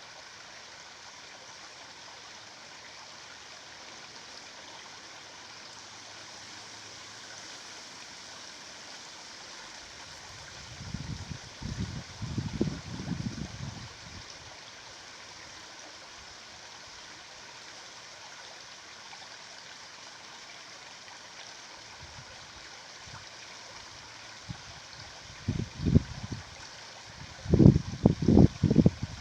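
Running water of a stream, a steady rushing with some gurgling. Twice, about a third of the way in and again near the end, a cluster of loud low rumbling bumps cuts in over it.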